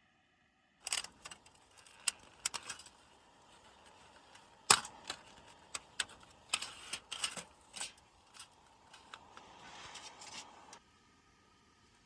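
Irregular sharp clicks and rustling of camping gear being handled, starting about a second in and stopping shortly before the end.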